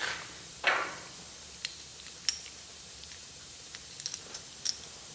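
Steel brake-bracket parts being handled: a knock about two-thirds of a second in, then a scatter of light metallic clicks and clinks, a few with a short high ring.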